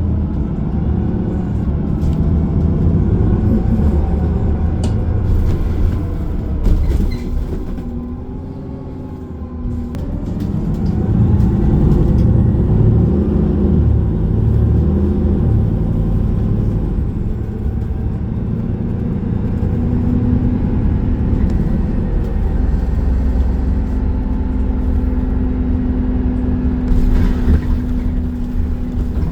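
A city bus's running noise heard from inside the passenger cabin: a steady engine and road drone with tones that shift in pitch. The drone eases off around eight seconds in, then builds again as the bus accelerates.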